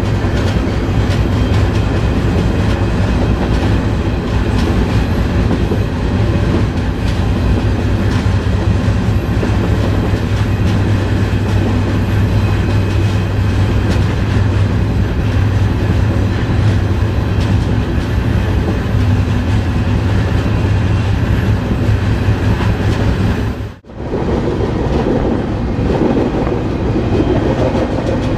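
Freight train rolling, heard from aboard one of its cars: a steady, loud rumble with wheels clattering over the rail joints. The sound cuts out for an instant near the end and comes back.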